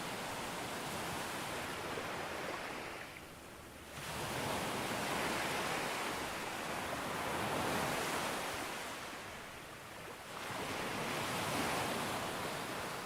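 Sea waves breaking and washing up a beach, a steady rush of surf that eases off and then swells again as a new wave comes in, about four seconds in and again about ten seconds in.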